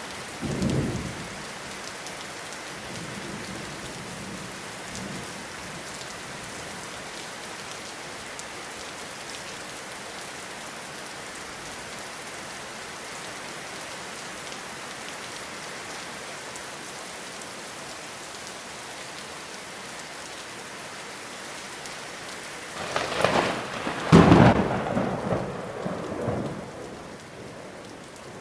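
Steady rain falling in a forest, a continuous even hiss. A short low rumble comes just after the start, and near the end a louder peal of thunder rolls for about four seconds.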